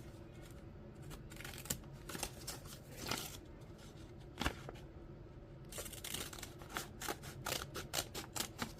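Scissors snipping through paper in a series of short cuts, with a pause near the middle and quicker snips in the last few seconds.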